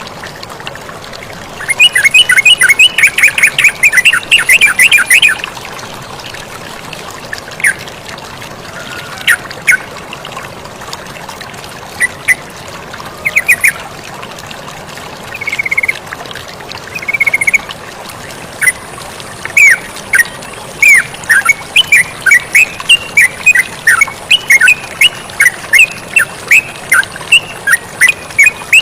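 Yellow-vented bulbul (terucukan) calling over steady running water: a burst of fast chattering early, scattered single calls, then a long run of quick repeated notes, about three a second, in the second half.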